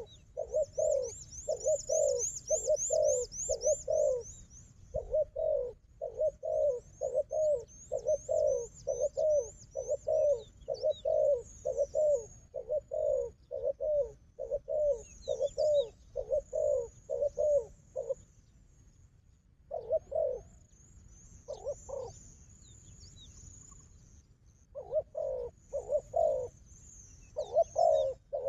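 Doves cooing in quick runs of low, repeated notes with a few short pauses, over the thin high chirping of small birds.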